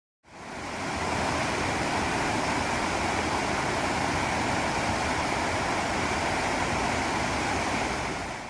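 Rushing water of a mountain stream's rapids: a steady, even rush that fades in just after the start and begins to fade out at the very end.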